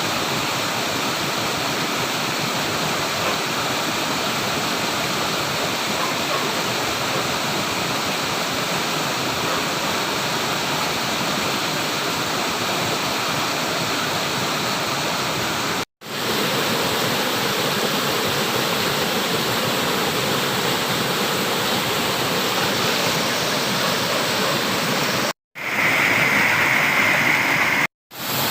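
Flowing water rushing steadily, broken by three brief sudden dropouts to silence where the recording is cut. A steady high tone is heard during the short stretch near the end.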